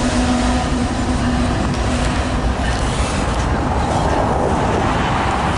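Train passing at close range: a loud, steady rumble of locomotive and wheels on the rails, with a low steady tone that fades out about halfway through.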